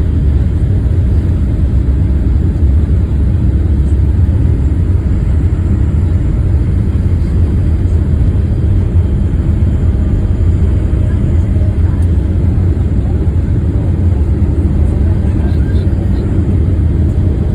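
Steady, loud roar inside the cabin of a Boeing 787 Dreamliner climbing after take-off: deep engine and airflow rumble with no change in level.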